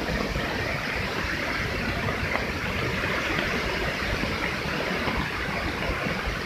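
Steady rush of water from the Lembah Anai waterfall, swollen and overflowing after heavy rain.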